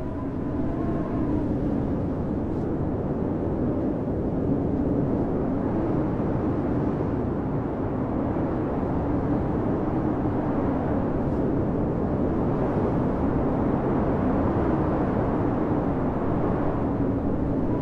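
Blizzard wind blowing hard and steadily, with a low wavering howl throughout and a higher whistle rising and falling near the end.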